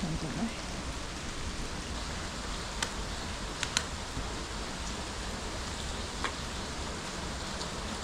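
A steady hiss with a few scattered faint sharp ticks.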